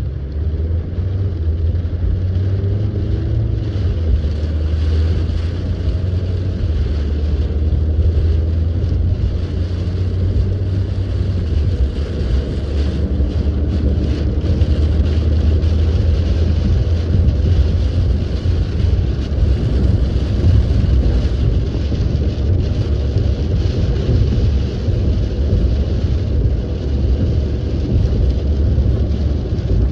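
Inside a moving car in light rain: a steady low rumble of the car and road, with an even hiss of rain on the car.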